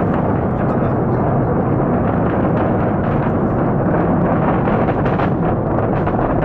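Falcon 9 rocket's nine Merlin first-stage engines, burning RP-1 and liquid oxygen, heard as a loud, continuous rumble with sharp crackles.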